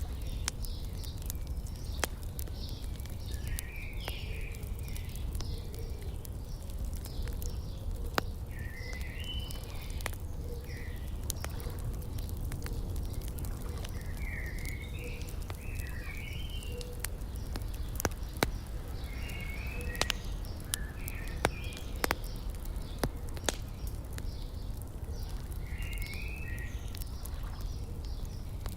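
Wood fire crackling with scattered sharp pops, while songbirds sing short warbling phrases every few seconds over a steady low outdoor rumble.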